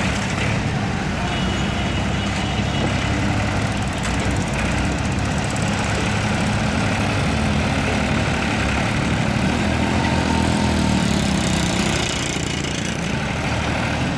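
Tractor's diesel engine running steadily under load, a little louder for a couple of seconds past the middle.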